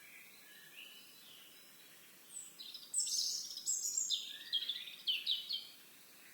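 A songbird singing a loud run of rapid high notes and trills for about three seconds, starting a couple of seconds in, after a few faint higher calls.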